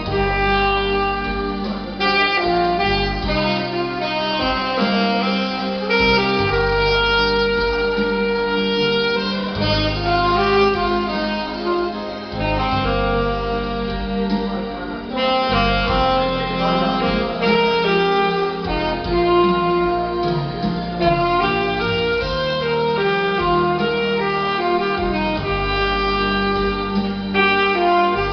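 Instrumental music: a saxophone playing a slow melody over a backing with a bass line that changes every couple of seconds.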